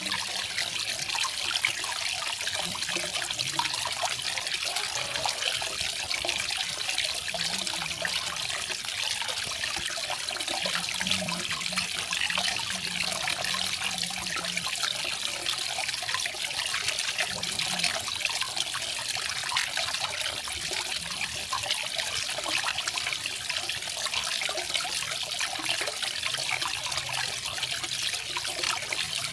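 Small garden waterfall: water falling and splashing in a steady, even rush.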